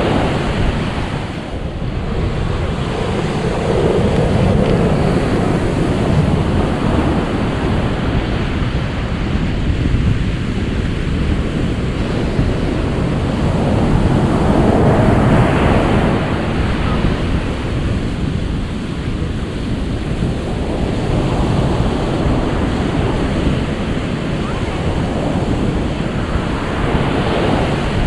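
Ocean surf washing ashore, a steady rush that swells and ebbs every several seconds.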